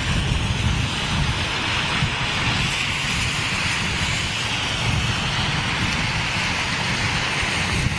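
Steady roar of a jet airliner on a rain-soaked runway, mixed with the hiss of rain and wind on the microphone.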